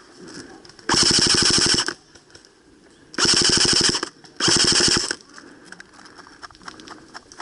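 Airsoft electric gun (AEG) firing three full-auto bursts: a rapid, even rattle of shots lasting about a second starting a second in, then two shorter bursts close together around three and four and a half seconds in.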